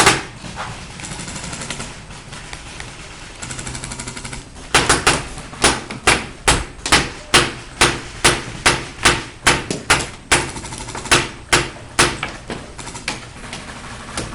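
Paintball marker firing a long string of single shots, about three a second. The shots start about five seconds in and stop near the end, about twenty in all.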